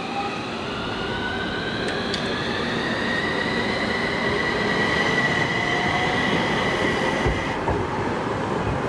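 Low-floor tram accelerating: its electric traction motors whine in several parallel tones that rise steadily in pitch over a rolling rumble, level off, then cut out abruptly near the end as power is shut off.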